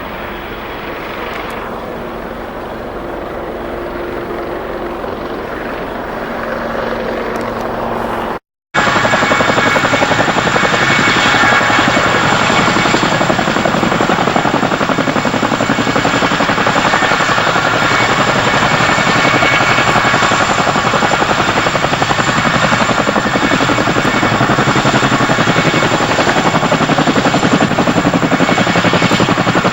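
CH-47 Chinook tandem-rotor helicopter running loud and close: a fast, even rotor chop with a high, steady turbine whine. For the first eight seconds or so, before a sudden cut, a quieter steady drone slowly grows louder.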